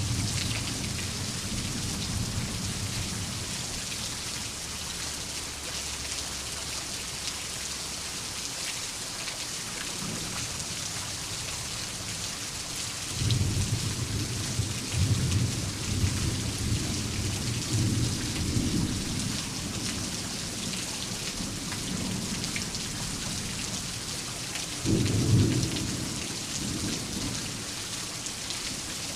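Thunderstorm: steady rain with rolling thunder. A rumble fades out over the first few seconds, a long rolling peal starts about 13 seconds in and lasts several seconds, and a sudden louder peal about 25 seconds in is the loudest moment.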